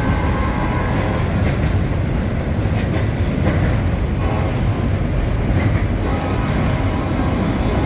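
A train rolling past: a steady rumble of wheels on the rails, with scattered clicks of the wheels over the track.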